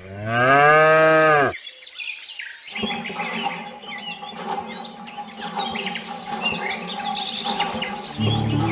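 A cow moos once, a long call that rises and then falls in pitch. It is followed by birds chirping over faint steady background tones.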